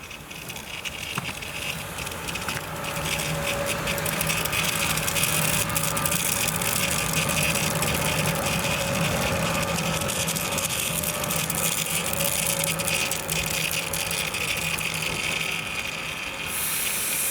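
A train going past, its sound swelling over the first few seconds and then holding, with a steady low engine note, a hiss and many quick clicks from the wheels and rails.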